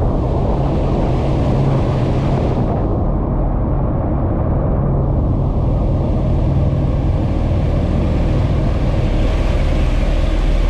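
Steady low engine rumble with a noisy hiss over it and no clear changes in pitch.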